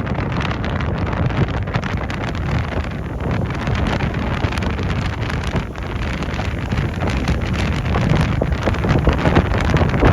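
Strong gusty wind buffeting the microphone: a dense, rumbling noise that rises and falls with the gusts, the wind ahead of an approaching typhoon.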